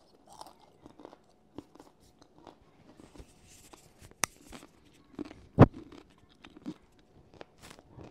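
Close-miked chewing and crunching of reheated bacon, with scattered small mouth clicks. A sharp click comes about four seconds in, and a louder thump about five and a half seconds in.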